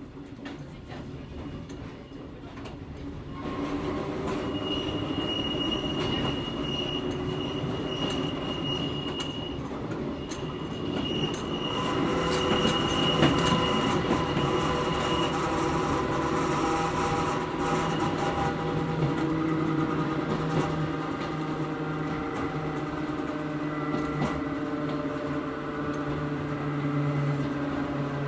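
Hakone Tozan Railway Moha 1 electric car heard from inside as it runs, its nose-suspended (tsurikake) traction motors and gearing humming and whining in several steady tones that grow louder about three and a half seconds in. A high, thin wheel squeal runs alongside from about five to fifteen seconds in.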